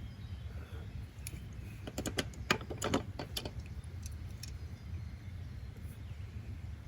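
A quick cluster of sharp light clicks and taps, like small objects being handled on a desk, about a second in and lasting a couple of seconds, with a few more clicks near the middle. Under them runs a steady low background rumble.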